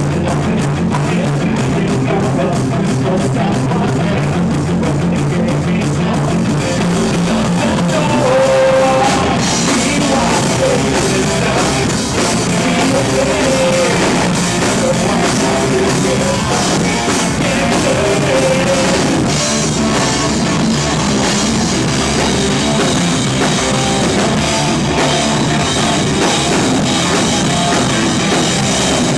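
Rock band playing live with drum kit and guitars, loud and continuous, with cymbals brightening the sound about a third of the way in.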